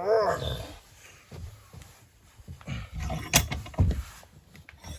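A few dull knocks and clunks from hand work on a tight part of a lawnmower's blade clutch bearing assembly, with one sharp metallic click partway through.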